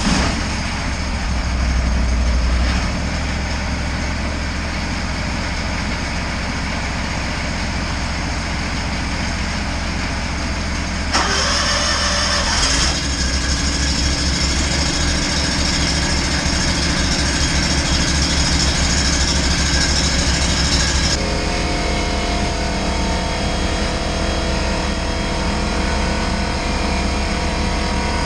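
An engine running steadily, having just started. Its sound changes about eleven seconds in and again about twenty-one seconds in, where a steadier hum with distinct tones sets in.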